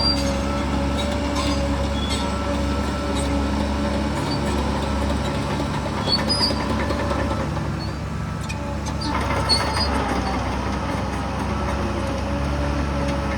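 Heavy diesel earthmoving machinery running steadily, with scattered clanks. The engine note shifts about nine seconds in.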